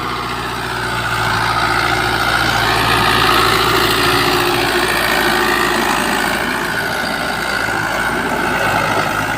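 A motor running steadily, with a low hum under a wavering higher whine.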